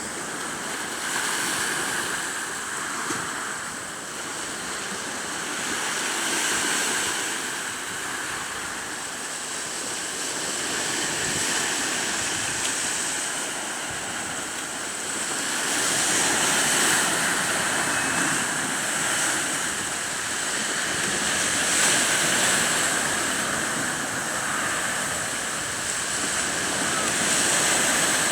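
Sea waves washing in on the shore, a steady rushing that swells and eases about every five to six seconds as each wave breaks.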